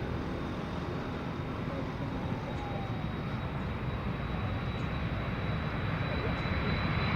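Jet engines of a Boeing TC-135W, four turbofans, running with a steady rumble that slowly grows louder, with a thin high whine coming up toward the end.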